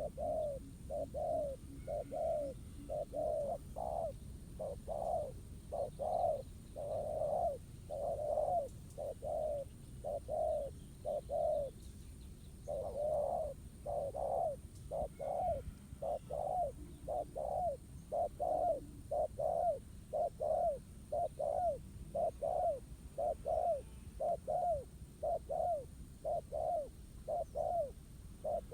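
Spotted dove cooing: short low coos repeated about three every two seconds without a break.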